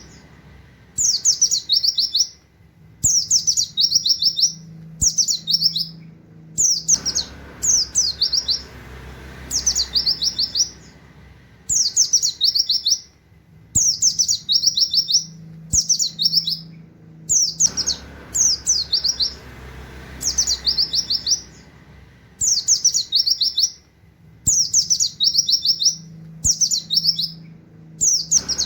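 Pleci (white-eye) singing a rapid 'nembak' song with canary-like 'wit wit' phrases. Short high phrases repeat about every second and a half, each opening with a falling note and breaking into a quick string of chirps.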